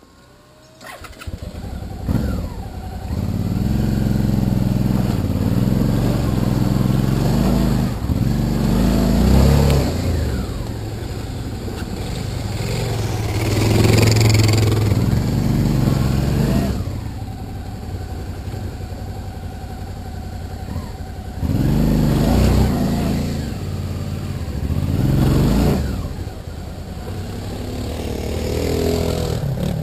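Suzuki V-Strom DL650A's V-twin engine pulling up a steep dirt track, its revs rising and falling in repeated surges as the throttle is worked.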